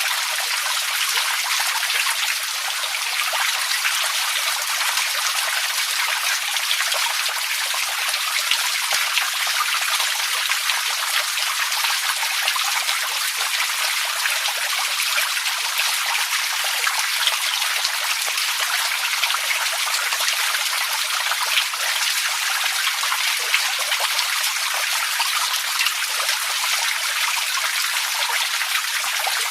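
Water running and splashing steadily, a continuous even rush dotted with many small drips and splashes.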